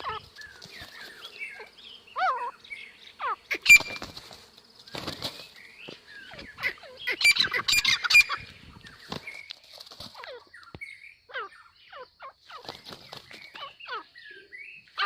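A rooster and a wild duck fighting: repeated bursts of wing flapping and scuffling, the loudest between about 7 and 8.5 seconds, with many short, falling squawks and chirps throughout.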